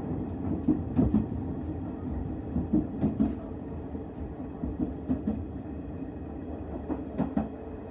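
Train running on rails: a steady low rumble, with knocks and clacks from the wheels now and then.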